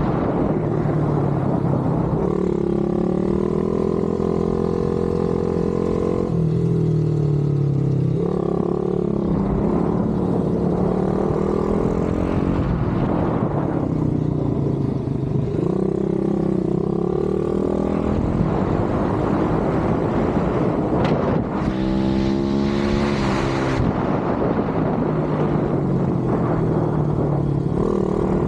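Pit bike's single-cylinder engine at full throttle. Its pitch climbs repeatedly through the revs, then drops back every few seconds as the throttle is rolled off and gears change.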